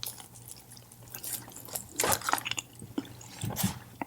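Close-miked wet eating sounds: chewing with mouth smacks and sticky clicks, a run of short sharp sounds that is loudest about two seconds in.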